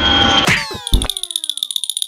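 Cartoon slapstick sound effects for a head-first crash landing: a whoosh with a high whistle, a sharp crash about half a second in and a low thud, falling-pitch tones, then a fast, high ringing trill from about one second in.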